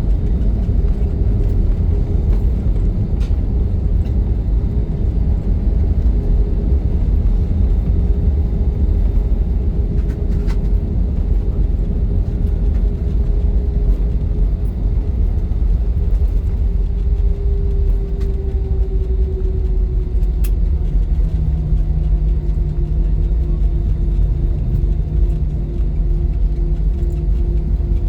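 Cabin noise inside an Airbus A320-214 with its CFM56 engines running: a loud, steady low rumble with faint engine tones, which shift a little about two-thirds of the way through as the engine setting changes.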